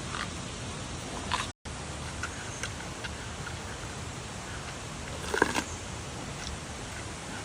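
Giant panda eating bamboo: scattered crunches and cracks as it bites and chews the stalks, with a louder burst of crunching about five and a half seconds in.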